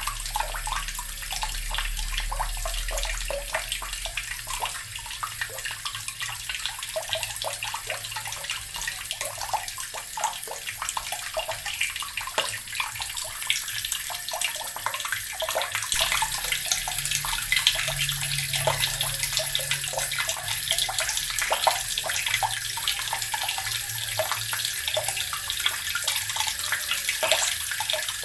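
Water running steadily from a tap and splashing into the basin below, a continuous hiss with a constant patter of small splashes.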